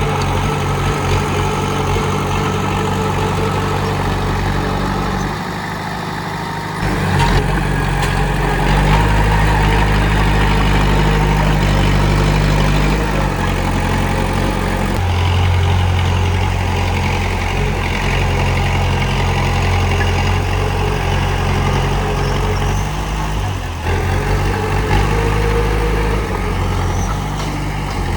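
Komatsu D31P bulldozer's diesel engine running steadily, its pitch and level shifting as it works, dropping briefly about five seconds in and growing louder from about seven seconds.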